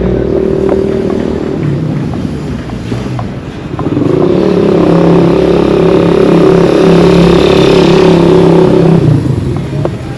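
A motor vehicle engine running close by at a steady pitch; it eases off briefly a couple of seconds in, then is loud again from about four seconds in until it drops away near the end.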